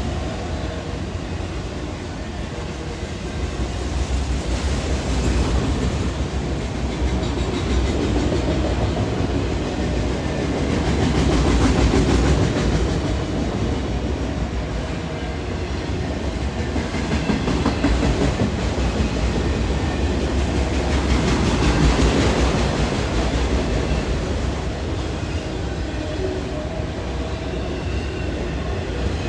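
CSX freight train with autorack cars rolling past close by: a steady rumble and rattle of steel wheels on the rails with clickety-clack over the joints. It swells louder several times, most strongly near the middle and about three-quarters through.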